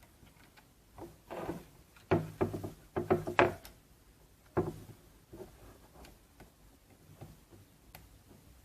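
A run of sharp clicks and knocks, as of something being handled and set down, clustered between about one and three and a half seconds in, with one more a second later and a few fainter ticks after.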